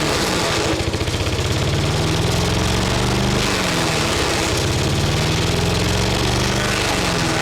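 Wood chipper's petrol engine running hard, its pitch sagging briefly and recovering three times as it takes the load of branches being fed in.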